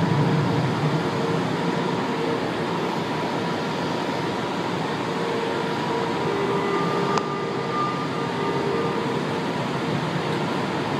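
São Paulo Metro train running in the station: a steady rail rumble with a few faint held tones over it, and a single sharp click about seven seconds in.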